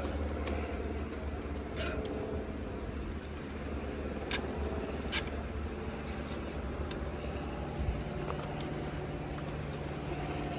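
A vehicle engine running steadily, its hum shifting higher about eight seconds in, with a few sharp clicks and knocks.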